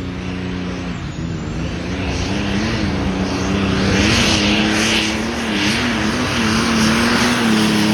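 Super stock pulling tractor's diesel engine running flat out under load during a pull, its pitch held high with slight wavers and growing louder over the first few seconds.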